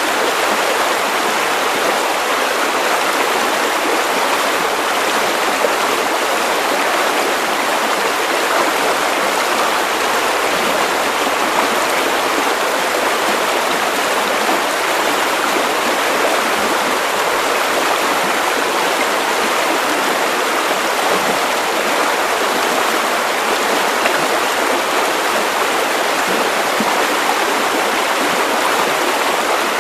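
Steady white noise: an even, unbroken hiss with little bass.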